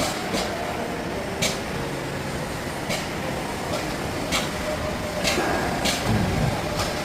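Sharp clicks, about seven of them at uneven intervals, over a steady machinery hum. They are the snapping of a motor's electromagnetic brake, the click whose presence shows the brake is working. A low thud comes about six seconds in.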